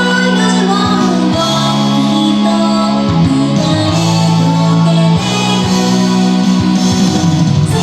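Idol pop song played loud through a PA: a backing track with electric guitar and bass, and a woman singing live over it.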